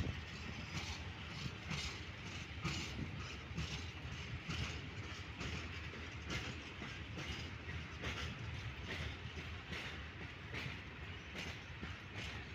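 Freight train of open wagons rolling steadily past, the wheels clacking over the rail joints in a repeating clickety-clack.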